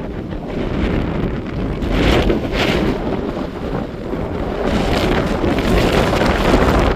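Wind buffeting the microphone, loud and gusting, swelling several times.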